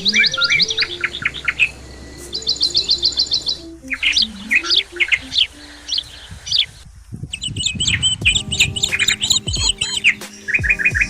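Small birds chirping and singing in quick repeated trills, with a short pause about seven seconds in. A soft melody of low notes runs underneath.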